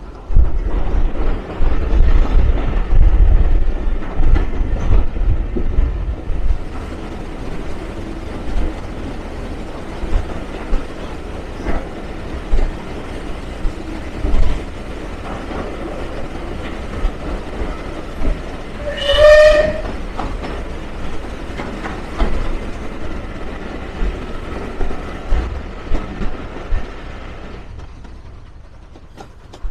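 A steam-hauled heritage train carriage running through a railway tunnel with the window open: a loud, continuous rumble and clatter of the wheels on the rails. A short high tone sounds once about two-thirds of the way through, and the noise falls away near the end as the train comes out of the tunnel.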